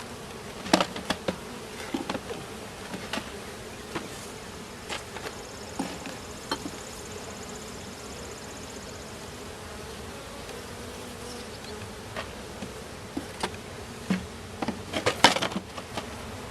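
Honeybee colony buzzing steadily around an open hive, with scattered sharp clicks and knocks from the hive being handled, a few about a second in and a louder cluster near the end.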